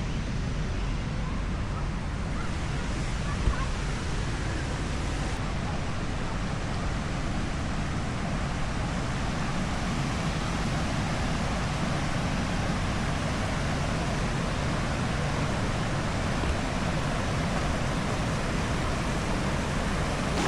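Steady rushing of waterfalls on the Big Sioux River, water pouring over quartzite rock, an even sound with no breaks.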